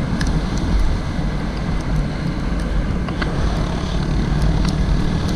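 Honda CG Titan 160 single-cylinder motorcycle engine running steadily while riding, under heavy wind rumble on the camera microphone.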